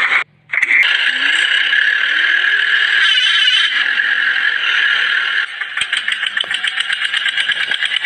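A small motor running steadily, cutting out for an instant near the start; about five and a half seconds in its sound changes to a fast, even pulsing.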